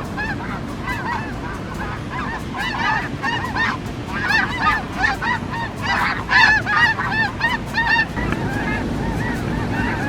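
A large flock of snow geese calling, many overlapping honks at once, busiest in the middle and thinning toward the end, over a steady low rush of wind.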